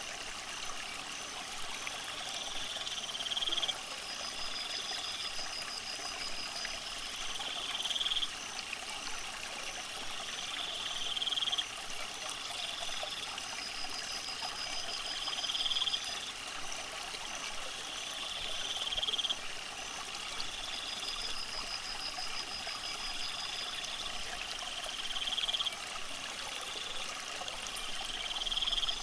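Steady trickle of running water. Over it, a buzzing call swells and cuts off abruptly about every four seconds, with a faint rapid trill higher up.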